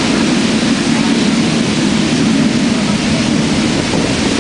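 Man-made volcano show erupting: a loud, steady rumble with a rushing hiss over it, like a jet engine or a waterfall.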